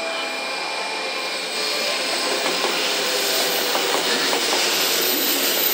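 A JR West 500 series Shinkansen pulling into the station platform: a steady rush of wheels and running gear on the rails. It grows gradually louder as the cars pass close by.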